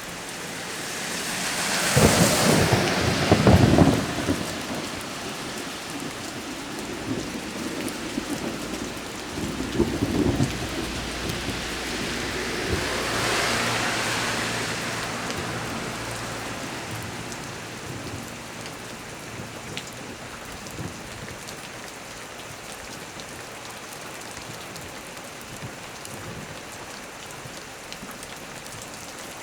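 Heavy rain falling steadily, with a loud thunderclap about two seconds in. A lower rumble of thunder follows around ten seconds, then a long rolling rumble that swells and dies away over the next several seconds.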